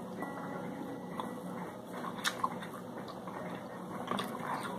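Chewing and wet mouth sounds of someone eating mixed vegetables, with a few light clicks of a plastic fork against a plastic bowl, over a faint steady hum.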